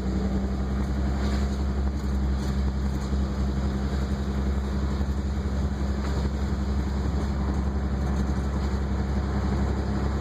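Car engine and road noise heard from inside a moving car: a steady low hum over a constant rush.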